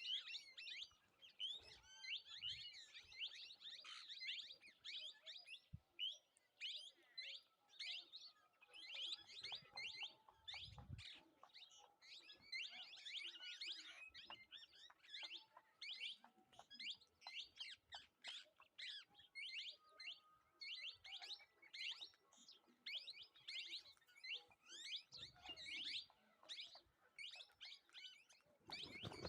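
A flock of small birds chirping constantly, many short high calls overlapping with hardly a pause.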